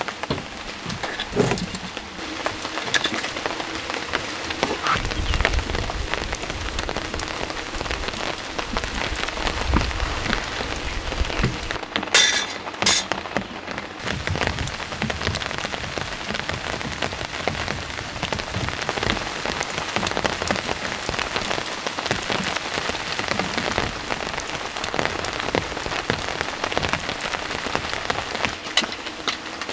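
Steady rain falling, with many single drops striking close by. A low rumble runs through the middle, and two short sharp sounds come just past halfway.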